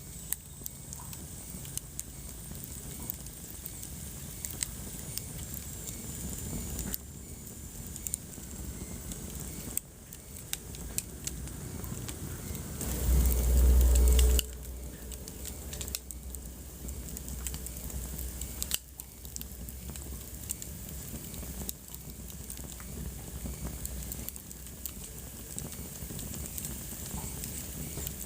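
Wood fire in a fireplace crackling, with many irregular sharp pops and snaps over a soft steady hiss. About halfway through, a low rumble swells for a second or so and is the loudest sound.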